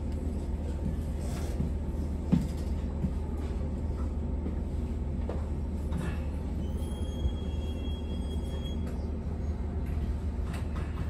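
Interior running sound of an Abukuma Express AB900 series electric train with Mitsubishi IGBT VVVF control: a steady low rumble with a few sharp clicks, and a thin high steady tone for a couple of seconds about halfway through.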